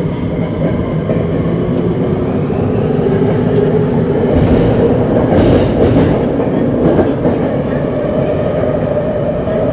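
Running sound inside a Tokyo Metro 7000 series subway car. The Hitachi IGBT-VVVF inverter and traction motors give a whine that climbs slowly in pitch as the train gathers speed, over a steady wheel-and-rail rumble with a few clicks from rail joints.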